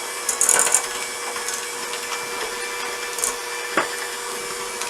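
Electric hand mixer running steadily at raised speed, creaming butter and sugar in a bowl, with a few short clicks along the way. It cuts off at the very end.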